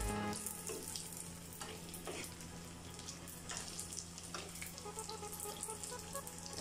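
Golgappa puris sizzling steadily in hot oil in a wok, with a few soft strokes of a slotted spatula pressing them down so they puff up.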